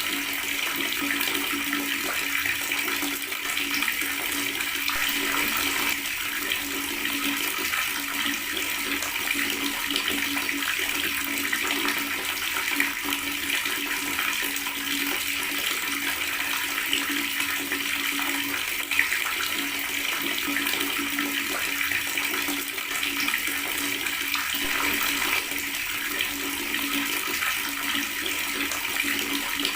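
Water tap running and gurgling steadily, a continuous rush of water with a steady low tone underneath.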